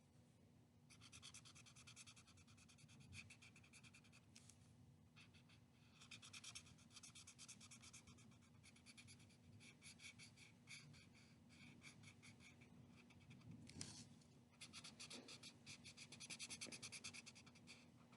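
Faint, rapid back-and-forth scribbling of a colouring tool on paper as the eagle's wings are coloured in brown, in runs of strokes with short pauses, over a faint steady hum.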